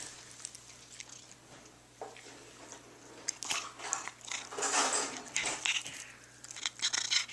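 A cat chewing grass: quiet at first, then crisp crunching and clicking bites from about halfway through, loudest in the middle of that stretch.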